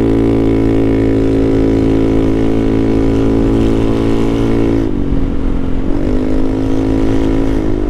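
Honda Navi's small air-cooled single-cylinder engine running under way at steady revs; about five seconds in the revs dip, then settle slightly lower, with another brief dip near the end.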